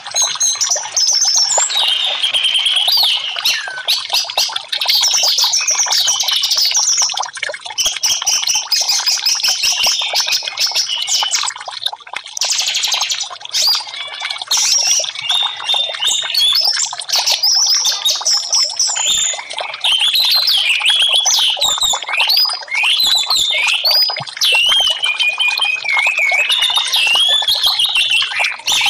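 Orange-headed thrush (anis merah) singing a rapid, varied song of high whistles and trills, phrase after phrase with hardly a pause.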